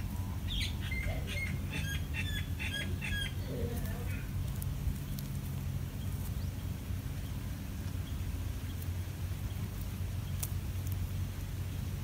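A bulbul gives a quick run of short, sharp chirping notes in the first few seconds, over a steady low rumble.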